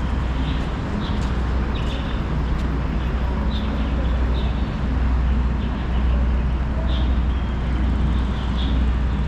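Steady city street traffic noise: a constant low rumble of passing vehicles, with short high chirps now and then.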